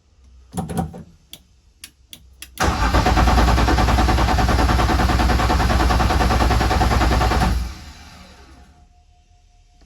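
A few sharp clicks, then a BMW M50 straight-six, turbocharged, turning over on its starter for about five seconds without firing and cutting off suddenly. It is not getting fuel pressure.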